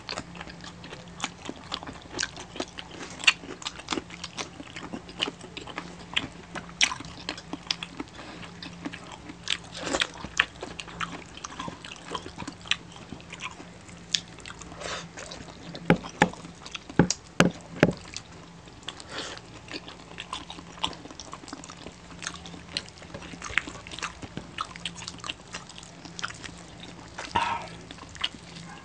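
Close-up eating sounds of two people chewing and biting pork knuckle meat: wet mouth clicks and smacks in an irregular patter, a few sharper ones a little past the middle. A faint steady low hum runs underneath.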